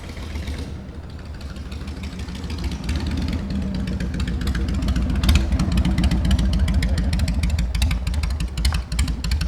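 Motorcycle engine running, growing louder over the first few seconds and then holding steady with a rapid crackle.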